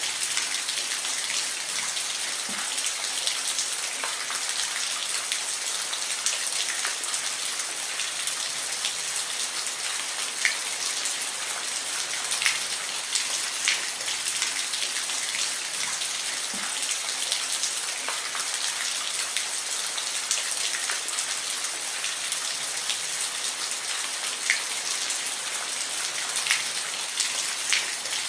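Steady rain falling, a dense hiss with scattered individual drops ticking on a surface.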